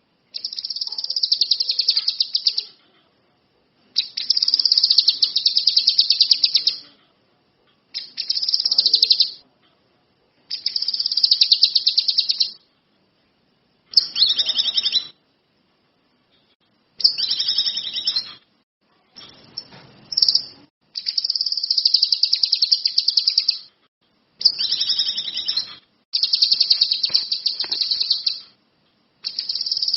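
Kinoi songbird singing steadily in fast, high trilled phrases of one to three seconds each, about ten of them, separated by short pauses.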